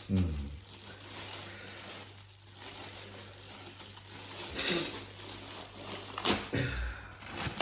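Rustling and light clattering handling noise as a thin folding fire pit and its parts are handled, with a sharp click about six seconds in and another near the end.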